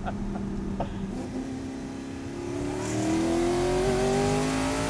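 Twin-turbo Audi R8 V8 accelerating hard. The engine holds a steady note for about a second, then rises steadily in pitch and gets louder as it pulls toward the red line.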